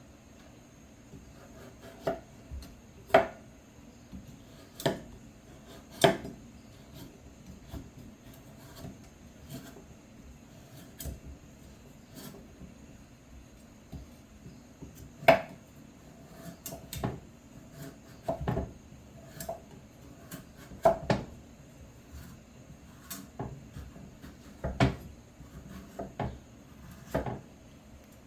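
Knife peeling and cutting a pumpkin, knocking sharply against the cutting board at irregular intervals, about once or twice every couple of seconds, with soft scraping in between.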